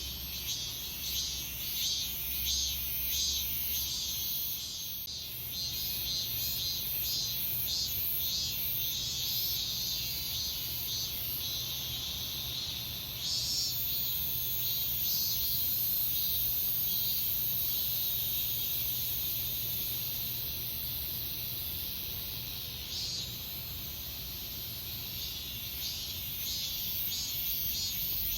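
Cicadas singing in late summer: a chorus of high-pitched, rhythmically pulsing calls, about two pulses a second. A steady, shrill, very high buzz takes over for several seconds in the middle before the pulsing returns.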